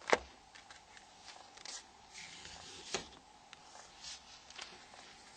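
Small plastic parts of a Nokia 6085 mobile phone being handled as the antenna cap comes off: a sharp click at the very start, a lighter click about three seconds in, and faint scraping and rustling between them.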